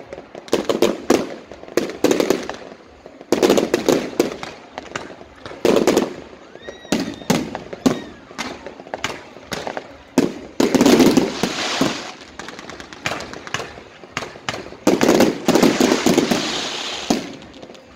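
Aerial fireworks display: a rapid run of sharp bangs and crackling bursts, with denser, louder salvos about three, eleven and fifteen to seventeen seconds in, and short rising whistles from shells around seven seconds in.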